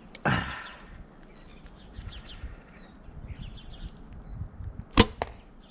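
Oneida Phoenix compound bow shot: a sharp crack as the string is released about five seconds in, followed a fraction of a second later by a fainter knock. There is a short rustle near the start, and birds chirp faintly.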